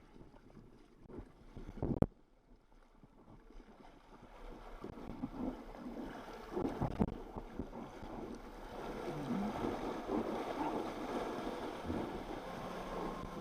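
Jet ski running while towing a tube, with wind buffeting the microphone. There is a single sharp knock about two seconds in, and the engine and wind noise grow louder from about four seconds on.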